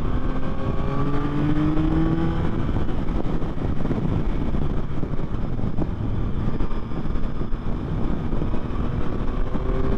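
2024 Yamaha MT-09's 890 cc inline-three engine accelerating at highway speed, its pitch rising for the first two seconds or so, then running steadily. It begins rising again near the end. Heavy wind noise on the helmet-mounted camera's microphone runs under the engine throughout.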